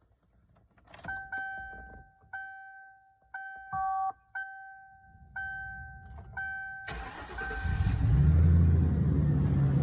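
A car's warning chime dings about once a second, then the 1996 Lincoln Town Car's 4.6-litre V8 cranks and starts about seven seconds in. It settles into a loud, deep idle, running with no exhaust system fitted.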